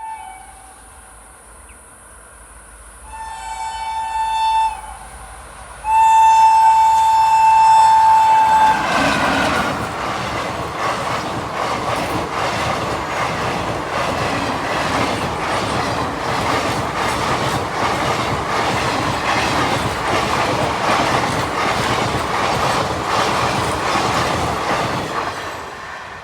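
Train horn sounding twice in a two-note chord, a shorter blast about three seconds in and a longer, louder one about six seconds in. A passing train follows, its wheels clattering over the rail joints in a steady rolling rumble that fades near the end.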